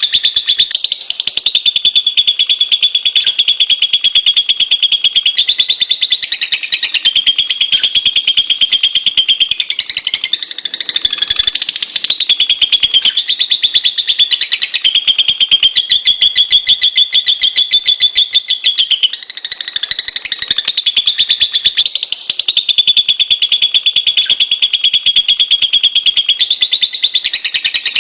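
Lovebird singing a long, unbroken, high-pitched chatter of very rapid notes, shifting its pitch every few seconds.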